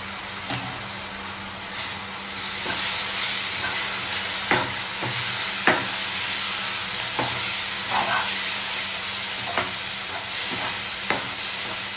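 Onion and spice masala with freshly added yogurt sizzling as it fries in a nonstick kadhai, stirred with a spatula that knocks and scrapes against the pan about seven times. The sizzle grows louder a couple of seconds in, as the yogurt is stirred into the hot oil.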